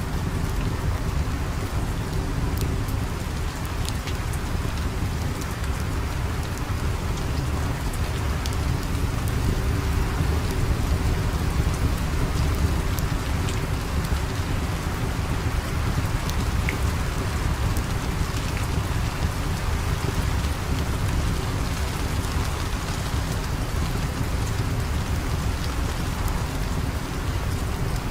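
Steady heavy rain, an even hiss with a deep low rumble underneath and a few scattered sharp drop clicks.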